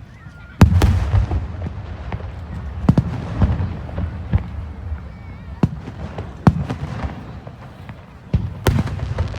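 Aerial fireworks shells bursting: a string of sharp booms with low rumble between them, the loudest about half a second in and another pair near the end.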